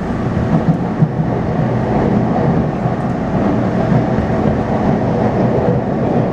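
Taipei Metro C301-type metro train, refitted with new inverter propulsion, running at speed between stations: a steady rumble of wheels on track with a faint steady hum from the drive.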